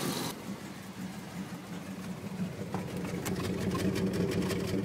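Dodge Ram pickup's V8 idling roughly and unevenly, with light irregular ticking coming in about three seconds in. The rough idle is the sign of a misfire, which a code reader traces to cylinder 8.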